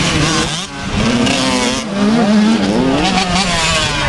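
Several dirt bike engines revving on the track, their pitch rising and falling as the riders work the throttle. The sound dips briefly under a second in, then swells again.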